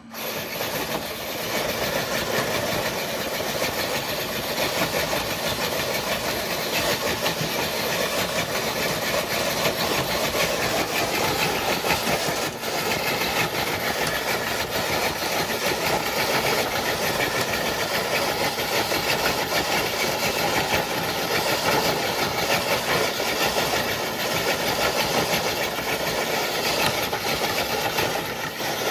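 Electric motor and gearbox of an RC scale crawler truck running steadily under load while it drags a dead-weight sled carrying 12 bricks. The sound starts right at the beginning and stays even throughout.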